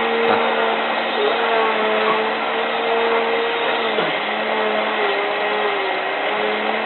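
Hotpoint 9534A washing machine filling with water at the start of a boil wash: a steady rush of water through the inlet valve and detergent drawer, with a steady hum.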